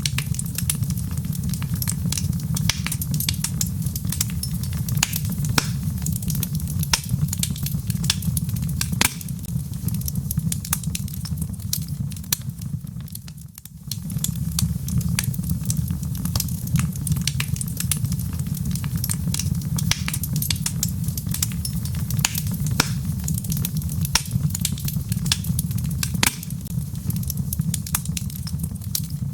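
Wood fire crackling in a fireplace, with frequent sharp pops and snaps over a steady low rumble of the flames. The sound briefly dips near the middle, then carries on.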